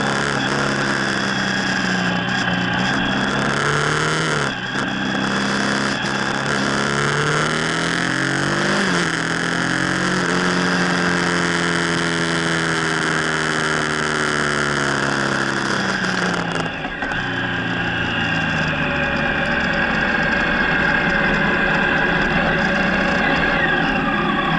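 Motorcycle engine running under way, with wind rushing over the microphone. The engine note climbs, breaks briefly about four and a half seconds in, and climbs again. It then falls steadily for several seconds, breaks briefly once more and settles lower.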